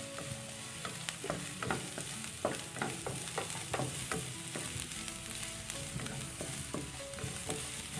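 Minced garlic sizzling in a little hot oil in a nonstick wok, sautéing until soft. A spatula stirs it, scraping and tapping against the pan many times at an irregular pace.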